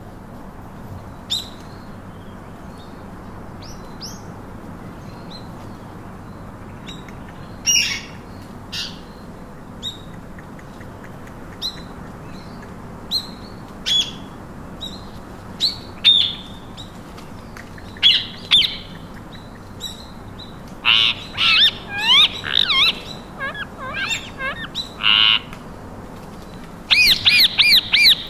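Parakeets calling: scattered short, sharp chirps for the first twenty seconds, then a quicker run of gliding, warbling calls and a loud burst of shrill calls near the end, over a steady hiss.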